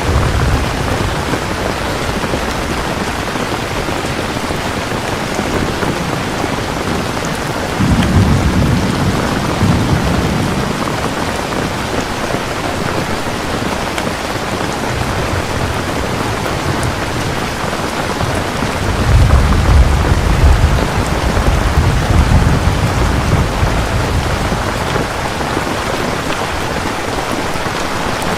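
Steady rain with two rolls of thunder: a shorter rumble about eight seconds in, and a louder, longer one starting around nineteen seconds and lasting about four seconds.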